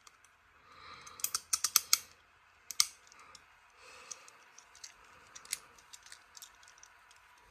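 Cartoon robot-transformation sound effects: irregular clusters of sharp mechanical clicks and clacks, with two soft whooshes about a second and four seconds in.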